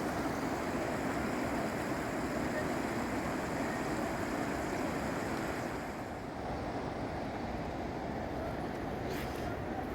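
Floodwater rushing in a swollen mountain river: a loud, steady rush of water that eases slightly about six seconds in.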